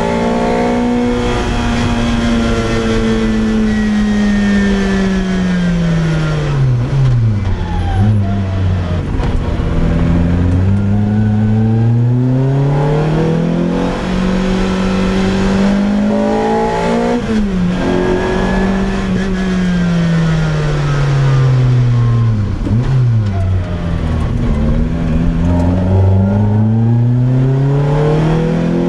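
Naturally aspirated four-cylinder engine of a Lotus Exige Cup with a loud exhaust, driven hard. The revs fall away slowly twice, each time with quick sharp throttle blips, then climb again under acceleration, holding steady for a few seconds in between.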